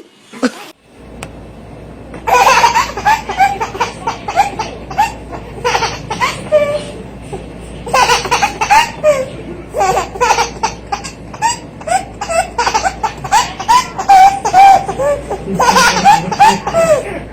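A baby laughing in repeated bouts of short, high giggles, with brief pauses between the bouts.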